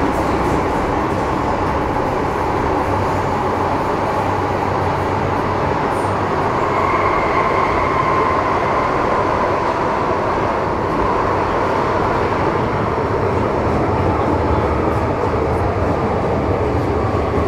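Interior running noise of an MTR Metro Cammell M-Train electric multiple unit with GEC GTO chopper traction, a steady loud rumble of the train under way. A faint whine swells and fades around the middle.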